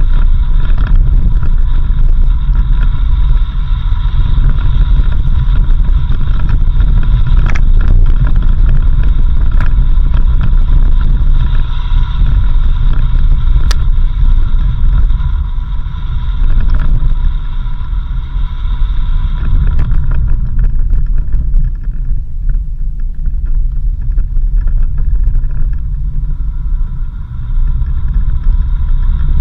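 Off-road 4x4 vehicle driving on a dirt road: a loud, steady low rumble of engine and tyres, with a higher hum that drops away about two-thirds of the way through. A couple of brief knocks stand out.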